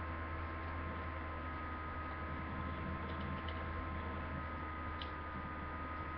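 Steady electrical mains hum with constant hiss, with a few faint light ticks about three and five seconds in.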